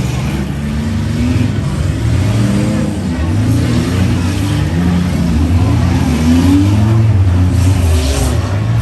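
Engines of several demolition-derby vans and trucks running and revving hard, with overlapping pitches rising and falling.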